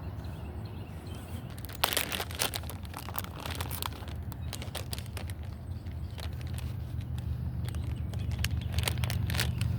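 Crinkling and crackling of a plastic bait bag being handled as a new soft-plastic fluke is taken out, in irregular bursts, over a low steady hum.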